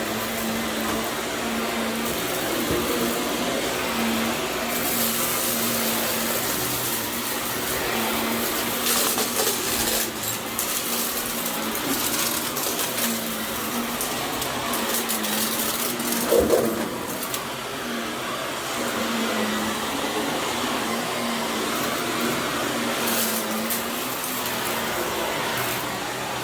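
Vacuum cleaner running steadily over berber carpet, its motor hum dipping and returning as it is pushed back and forth. It gives several short crackles and rattles as it sucks up grit and debris, the loudest a little past halfway.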